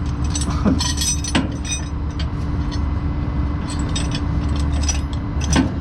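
Steady hum of an idling truck engine, with scattered metallic clinks of chain and hooks being handled.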